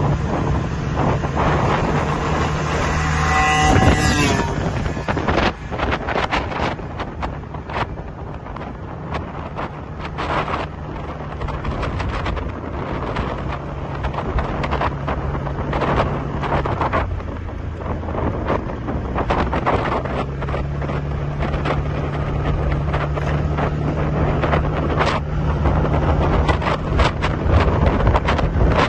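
Motorbike engine running steadily while riding, with heavy wind buffeting on the microphone. A short higher-pitched tone sounds about three to four seconds in.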